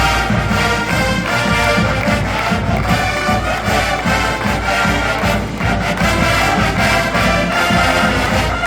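College marching band playing its fight song at full volume: massed brass chords over a steady beat of drums.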